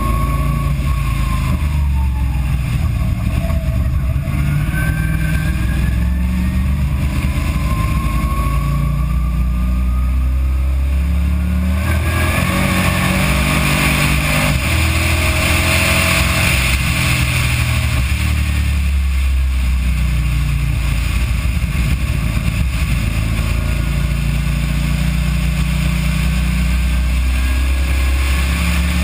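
Race car engine on board under hard acceleration, its pitch climbing through third gear and dropping at a shift to fourth. The recording is poor and dominated by a heavy low rumble.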